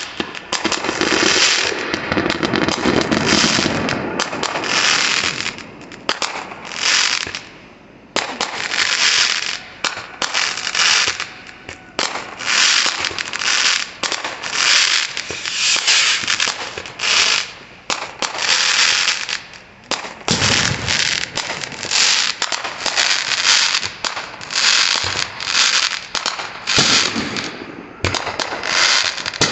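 Fireworks going off in a dense, continuous run of short bursts, about one or two a second, with deeper booms underneath about a second in and again about twenty seconds in.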